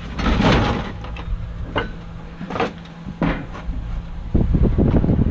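Rummaging through trash in a dumpster: a burst of rustling and shifting near the start, then a few separate knocks and clatters. About four seconds in, a steady low rumble like wind on the microphone takes over.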